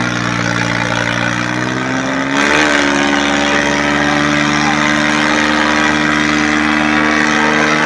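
Tractor diesel engine running steadily at high revs, its pitch rising a little about two and a half seconds in.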